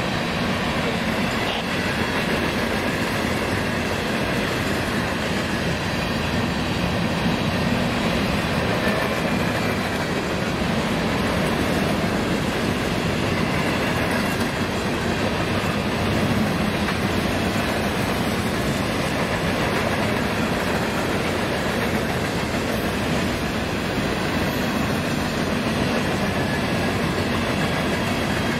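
Railroad cars of a passing train rolling steadily along the rails, a continuous even rumble and rattle with no horn or engine standing out.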